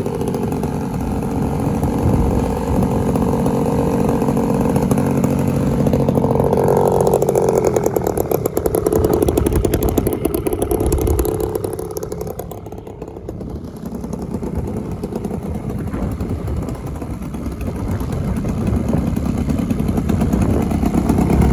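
Radio-controlled model airplane's glow (nitro) engine running in flight, its buzzing pitch rising about a third of the way in, fading for a moment past the middle and growing louder again near the end.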